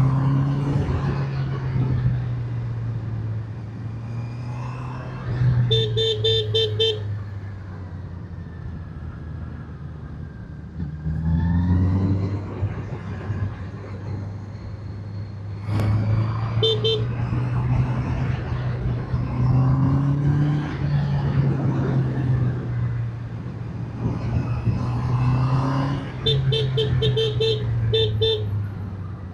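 Motorcycle engine running under way, its pitch rising and falling with the throttle, over wind noise. Three times the horn is tapped in quick runs of short beeps: a run of several, a single pair, then a longer run near the end.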